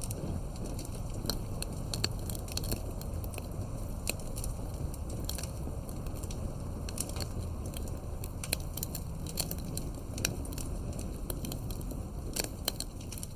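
Bonfire burning: a steady low rush of flames with frequent, irregular sharp crackles and pops.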